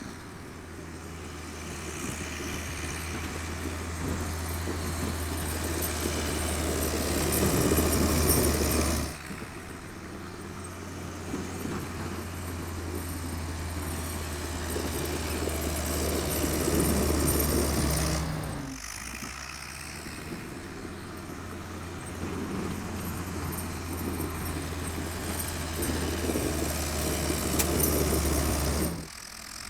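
Old Volvo tractor engine running under load, with a steady low drone that grows louder in three stretches. Each stretch ends in a sudden drop, about a third and about two thirds of the way through and again near the end.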